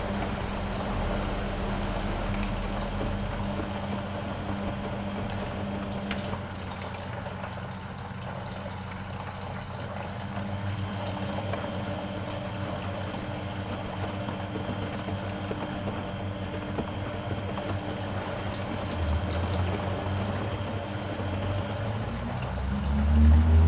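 Privileg 370 S washing machine running: water sloshing and splashing in the drum over a steady motor hum. Near the end the motor's pitch rises as the drum speeds up.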